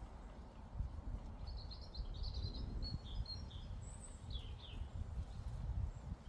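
A songbird singing a short run of quick high chirps and trills over a few seconds in the middle, with a few faint chirps near the end, over a steady low rumble of breeze on the microphone.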